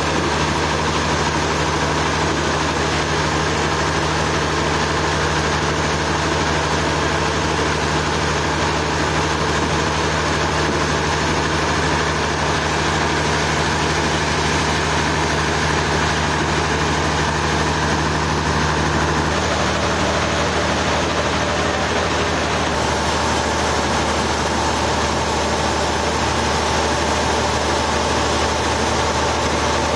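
Sawmill machinery running steadily, an engine hum over an even rushing noise; its note changes about two-thirds of the way through.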